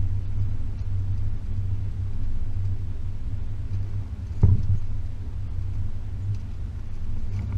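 Range Rover P38's 4.0 V8 and running gear giving a steady low rumble while driving along a rough track, with a single sharp knock about four and a half seconds in.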